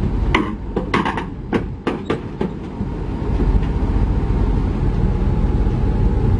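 Heavy diesel construction machinery running with a low rumble. Several sharp metal clanks come in the first couple of seconds, then it settles into a steadier, louder drone.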